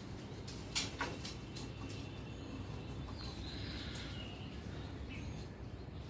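Outdoor garden ambience with faint bird chirps over a steady low background noise, and two sharp clicks about a second in.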